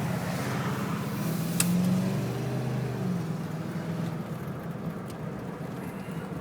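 1990 Cadillac driving, heard from inside the car: a steady engine hum with road noise, the engine note shifting in pitch during the first few seconds.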